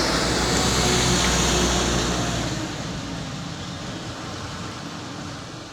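A truck engine running loud as it passes close, then fading away about two and a half seconds in as it moves off.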